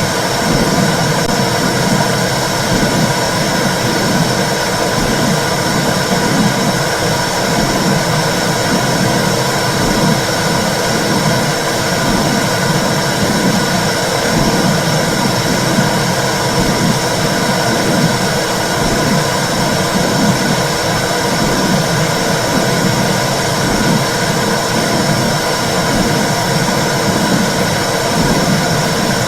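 Womb sound for soothing babies: a steady, loud rushing noise with a low whooshing pulse about once a second.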